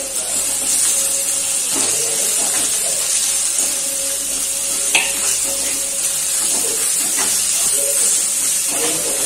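Chopped onions, green chillies and turmeric frying in oil in a kadhai with a steady sizzle. A steel spoon stirs and scrapes against the pan, with a sharper clink about halfway through.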